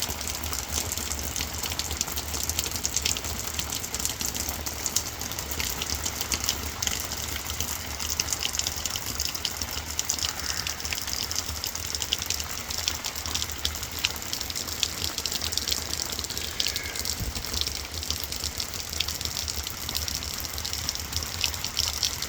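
Steady rain shower, a dense patter of countless small drop impacts over a continuous wash of falling water, with a low constant rumble underneath.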